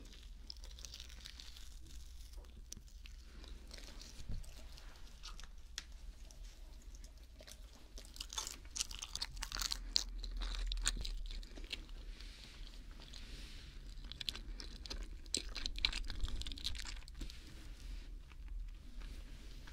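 Close-up mouth sounds of a person biting and chewing a mac and cheese sandwich, with many short sharp clicks that come thicker about halfway through.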